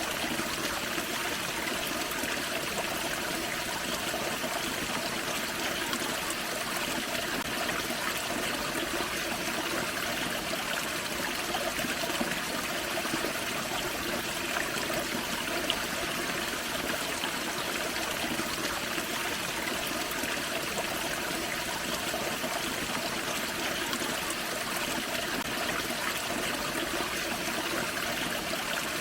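Small waterfall in a forest creek: water running and trickling steadily.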